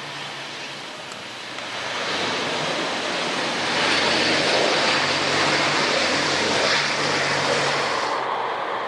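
Jet airliner engine noise, the Airbus A321-211's CFM56 turbofans, swelling as the aircraft passes close by, a broad rushing roar that peaks mid-way before its high hiss falls away sharply near the end.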